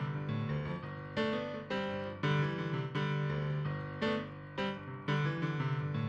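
Background music: piano notes struck about twice a second, each ringing and fading before the next.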